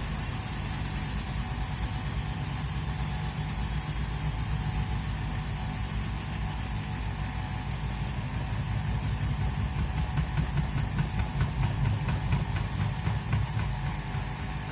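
Washing machine running with a steady low motor hum; from about nine seconds in, a fast pulsing rattle builds up and grows louder, then eases off near the end.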